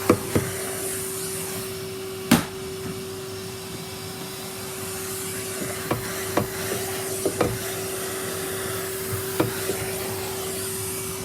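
Henry vacuum cleaner running steadily with an even hum, broken by several sharp knocks. The loudest knock comes about two seconds in, and a cluster of smaller knocks follows between about six and nine and a half seconds.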